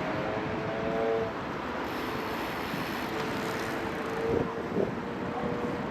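Steady outdoor noise of wind on the microphone and distant city traffic, with a faint held tone in the background.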